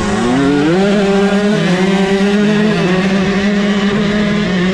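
Two-stroke dirt bike engines running hard at high revs. One engine's pitch drops right at the start and climbs back up over the next second, while another holds a steady high drone.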